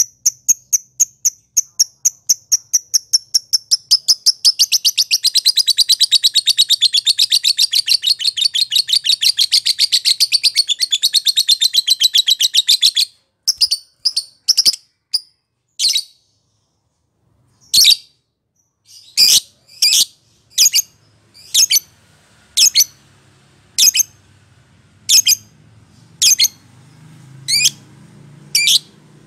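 Lovebird singing: a long run of rapid chirps, about five a second, that grows louder and fuller about four seconds in and stops after some thirteen seconds. After a short pause come single sharp chirps about once a second.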